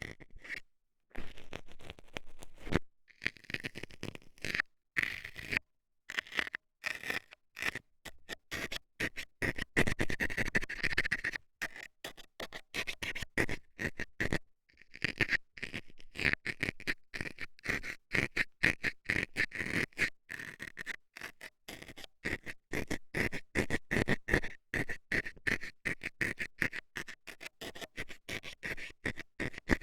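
A metal scaler scraping and jabbing inside the ear of a binaural microphone, in rapid, rough strokes that stop briefly a few times.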